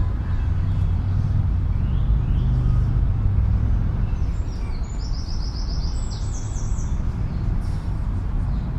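A steady low rumble of city traffic, with a small songbird singing a rapid run of repeated high notes about halfway through and a few faint chirps before it.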